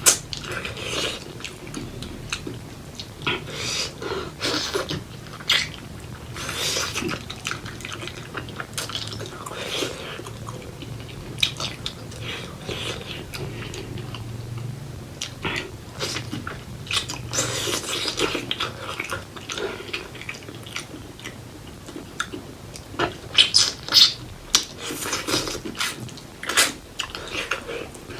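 Close-miked eating: mouth chewing and smacking on pork leg curry and rice, a steady run of irregular wet clicks and smacks, with a cluster of louder smacks near the end.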